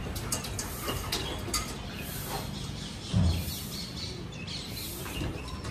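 Quiet outdoor background with faint, scattered bird chirps and a brief low thump about three seconds in.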